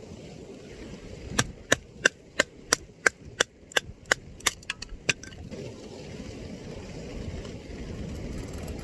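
A run of about a dozen sharp knocks, roughly three a second and a little quicker near the end, over a steady low rumble of wind.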